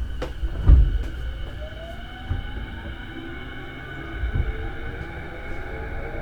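E233-series electric train pulling away from a station, heard from inside the car: the traction inverter and motors give a whine that rises steadily in pitch as the train accelerates, with a few low thumps through the carriage.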